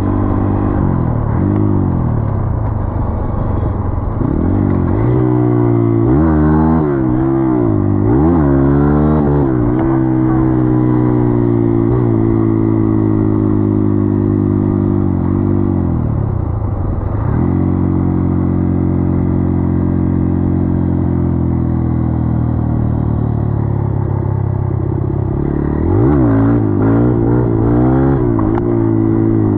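Dirt bike engine running while being ridden: it revs up and down several times in quick succession from about five to ten seconds in, then holds a steady pitch, drops off briefly around seventeen seconds, runs steady again, and revs up and down repeatedly near the end.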